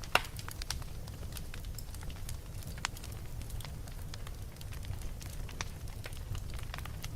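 Wood fire crackling in a fireplace: irregular sharp pops and snaps over a steady low rumble, with one loud pop right at the start.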